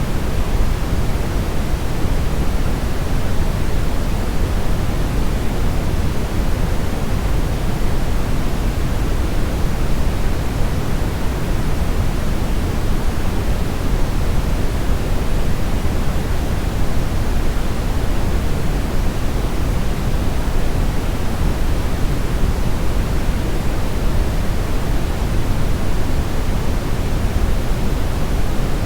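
Steady brown noise: an even, deep rushing hiss, heaviest in the low end, with no changes or events.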